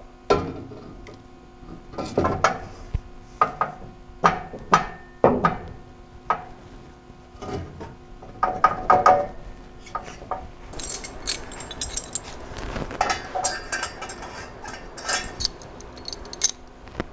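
Metal exhaust pipes knocking and clanking as they are worked together by hand, then a stretch of quick, dense metallic rattling and scraping in the last third.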